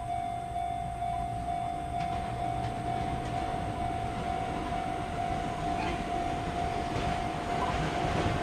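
JR Central 373 series electric train approaching, its rumble growing louder toward the end. A steady high tone pulses evenly throughout.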